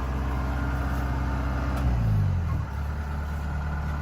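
Kubota rice combine harvester's diesel engine running steadily, its pitch dropping about two seconds in as the engine slows, then settling into a lower steady run.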